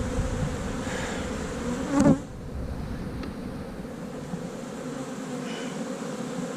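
Honey bees buzzing steadily around an open hive packed with bees during an inspection, with one short knock about two seconds in.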